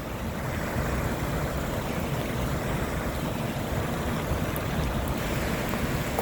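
Steady rushing noise of a creek swollen by flash-flooding, running high up to the dam.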